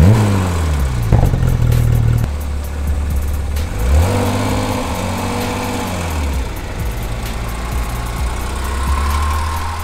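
Porsche 911 GT3's flat-six on its stock exhaust, starting up with a sudden flare of revs that falls back. There is a short blip about a second in and another rev about four seconds in, then it settles into a steady idle.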